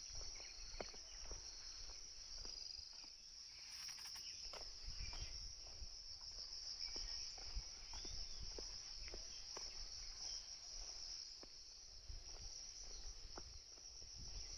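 A steady, high-pitched chorus of insects buzzing without a break, with irregular light taps and crunches of footsteps on a trail.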